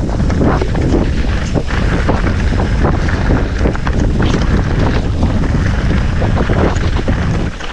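Wind buffeting the microphone of a mountain bike ride on a rough dirt trail, with rapid clattering knocks from the bike over bumps; it eases off near the end.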